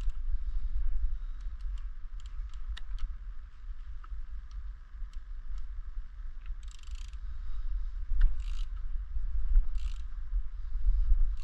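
Hand tools working on metal parts: scattered light clicks and a few short scrapes, over a steady low rumble.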